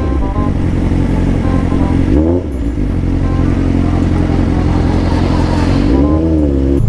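Suzuki GSR 750's 750 cc inline-four engine running under way, its pitch rising and dipping briefly as it revs about two seconds in and again near the end.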